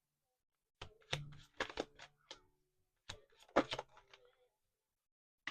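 Tarot cards being handled on a table: a quick run of sharp taps and clicks over about three seconds.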